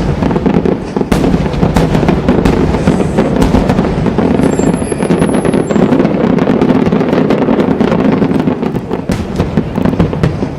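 Aerial fireworks going off in quick succession: many sharp reports over a continuous crackle.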